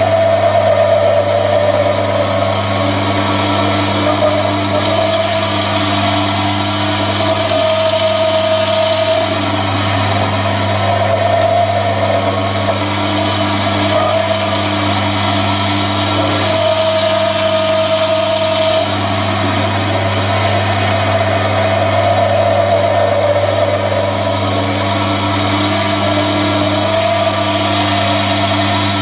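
Chinese mini lathe running under load as a high-speed steel tool faces the rough end of a workpiece: a steady motor hum with a wavering cutting tone that swells and fades. The cut keeps forcing the tool back, so it wobbles against the hand wheel.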